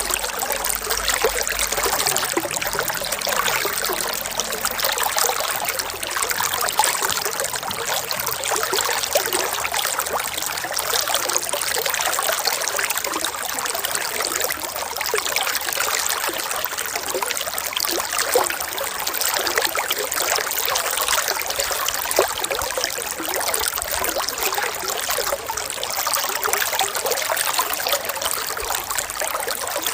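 Running water trickling steadily, a continuous splashy babble with many small flickering droplet sounds and little low rumble.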